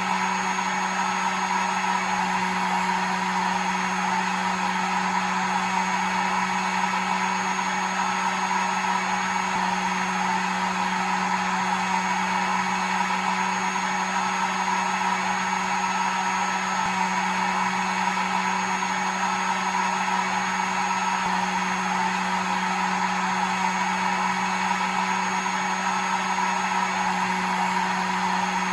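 Electric hair dryer running continuously at a steady speed: an even rush of blown air over a constant motor hum.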